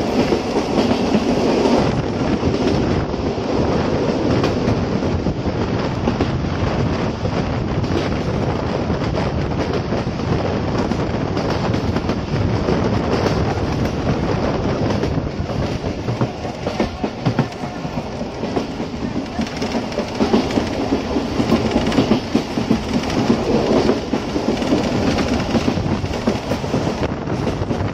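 Passenger train running at speed, heard from an open coach door: a steady rumble of steel wheels on the rails, with many quick clacks as the wheels pass over rail joints.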